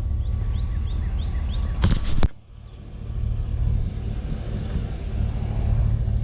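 Motor vehicle engine running steadily with a low rumble, with a short loud clatter about two seconds in, after which the sound briefly drops away.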